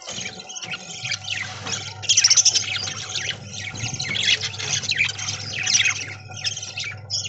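A flock of budgerigars chattering and chirping continuously, many short overlapping warbles and chirps, loudest about two seconds in, over a steady low hum.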